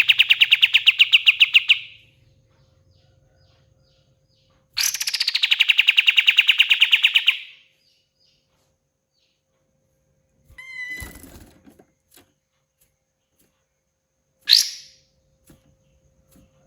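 Kapas tembak songbird singing: a fast, loud rattling trill of rapidly repeated notes that ends about two seconds in and comes again about five seconds in for a couple of seconds, then a short jumbled call and a single sharp note near the end.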